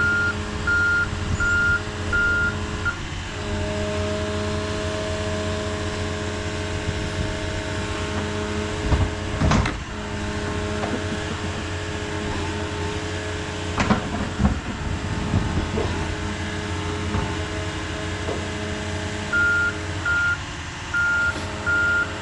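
Diesel heavy equipment running steadily, its back-up alarm beeping about twice a second while it reverses, then stopping after about three seconds and starting again near the end. Two loud metallic clanks come in the middle, a few seconds apart.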